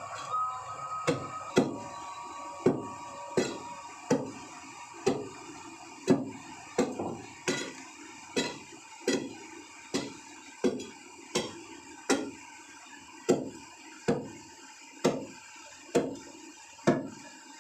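Hammer blows knocking into a wall over and over, a little more than one sharp strike a second, each with a short ring.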